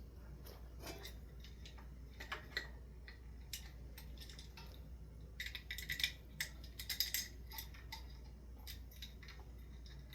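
Small metal clicks and clinks of screws and ceiling-fan parts being handled during assembly, in scattered taps that bunch into a quick run about halfway through, over a faint steady low hum.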